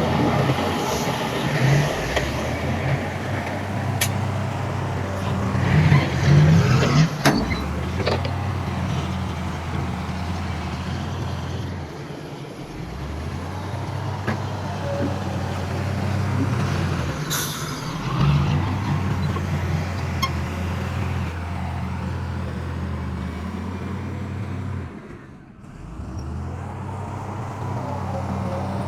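Heavy diesel engine of earthmoving machinery running steadily, with a few sharp clanks and a brief dip in level near the end.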